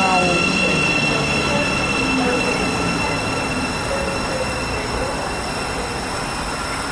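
A Thameslink Class 700 electric multiple unit running at the platform, giving a steady high-pitched electrical whine over rail and rolling noise. A few falling tones sound near the start, and the whole sound slowly grows quieter.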